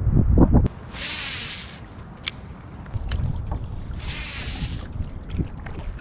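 Kayak paddle strokes: two brief splashing hisses of water about three seconds apart. Wind buffets the microphone with a loud rumble in the first moment.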